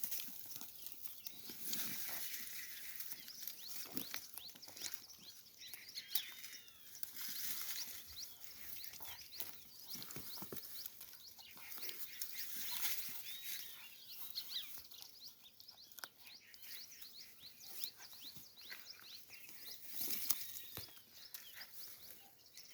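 Outdoor ambience of many small irregular clicks and knocks, with a few bird chirps now and then.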